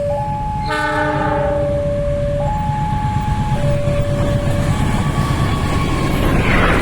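Locomotive of a coal train sounding its horn in long notes that alternate between two pitches, over the steady low rumble of the train running. The horn is loudest and fullest about a second in, and a brief rushing noise comes near the end.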